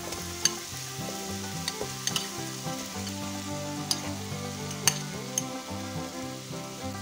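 Spiced tomato masala sizzling in a non-stick frying pan as boiled chickpeas are tipped in from a glass bowl, with several sharp clicks scattered through it.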